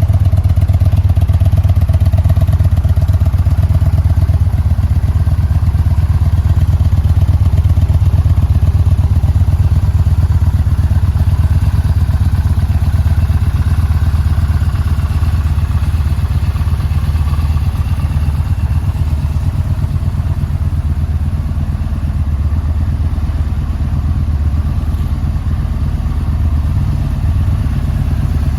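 Yamaha Bolt R-spec's air-cooled V-twin engine idling steadily.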